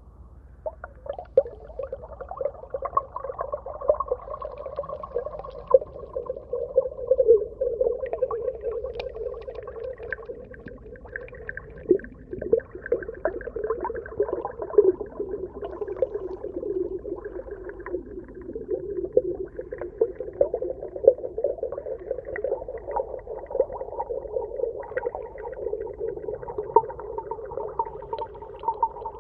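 Muffled underwater ambience: a steady wash of water sound with many small pops and clicks, like bubbles heard underwater.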